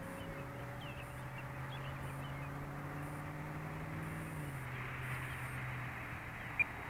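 Radio-controlled model airplanes flying overhead, their motor and propeller hum steady but stepping down in pitch twice as the throttle is eased off for the descent to land. A short sharp click near the end.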